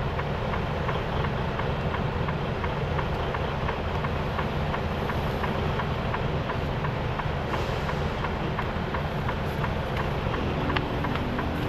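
Semi truck's diesel engine running steadily, a low hum, with a faint regular ticking about three times a second. A slightly higher hum comes in near the end.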